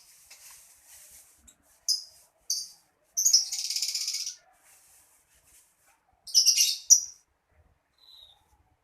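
Young lovebird calling: a couple of short, shrill chirps, then about a second of rapid, buzzing chatter, and later a further burst of shrill calls.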